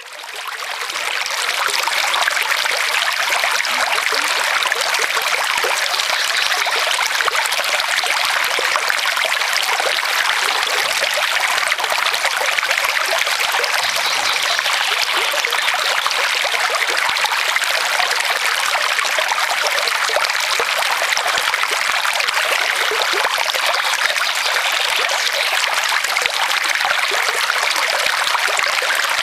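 Brook flowing steadily with a continuous trickling, babbling rush of water, fading in over the first couple of seconds.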